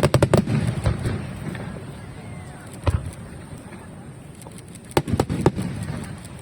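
Aerial fireworks shells bursting: a quick cluster of bangs at the start, a single bang about three seconds in, and another rapid cluster about five seconds in.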